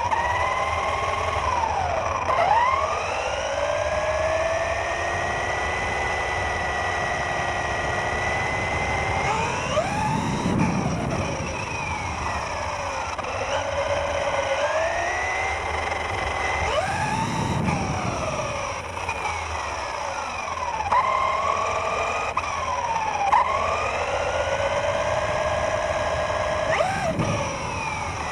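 RC car's motor whining, its pitch rising and falling again and again as the car speeds up and slows down. Three short bursts of low rumble come in along the way.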